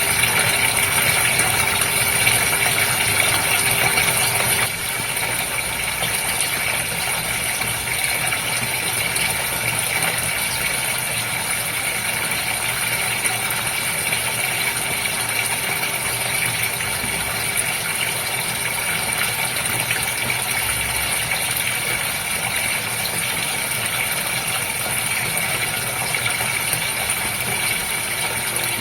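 Steady running and splashing water in a goldfish aquarium, with the constant hum of a filter pump under it; the sound steps down a little, and the hum fades, about five seconds in.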